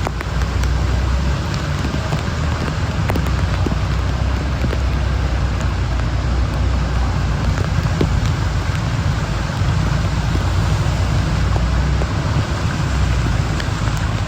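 Heavy rain falling steadily, with a low rumble underneath and scattered faint drop ticks.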